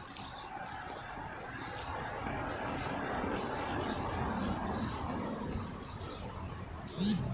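Outdoor background noise that swells and fades, with a few short, high bird chirps near the end.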